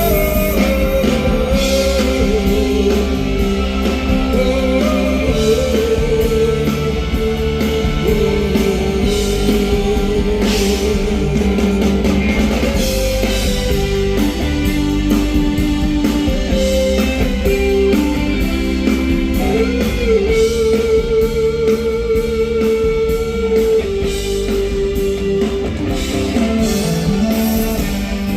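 Live rock band playing a song without sung words: electric guitar carrying a sustained lead melody with vibrato over drums and bass.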